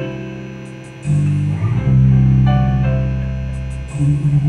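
Instrumental band music opening a song: held guitar and bass chords that change about a second in and again near the end, with a few light, short ticks above them.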